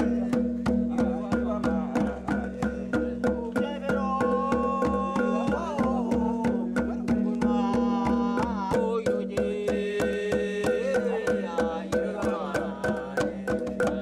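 Music: drums beaten in a steady, even rhythm of about three to four strokes a second over a held low drone, with a wavering sung or played melody in two stretches, starting about four seconds in and again about eight seconds in.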